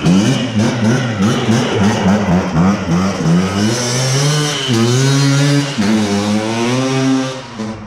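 Small off-road engine revving: quick throttle blips for the first few seconds, then longer revs held and let back down, dropping away near the end.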